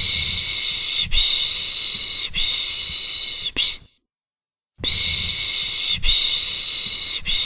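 A person's 'piş piş' shushing to soothe a baby: drawn-out hisses of about a second each, three in a row, a pause of about a second, then another run of hisses.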